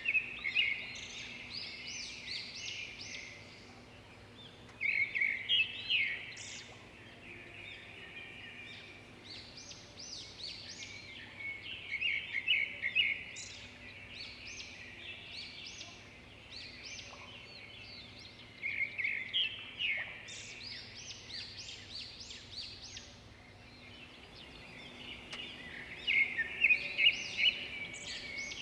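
A songbird singing in repeated phrases, five times, roughly every six to seven seconds, each a fast, jumbled run of high chirping notes lasting two to three seconds. A faint steady hiss and low hum lie underneath.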